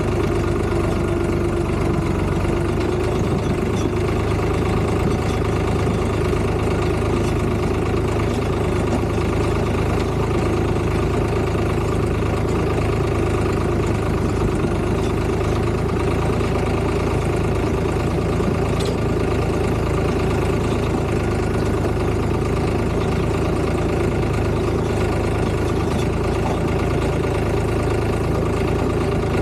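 Tractor engine running steadily at an even speed, a constant drone with no change in pitch or level.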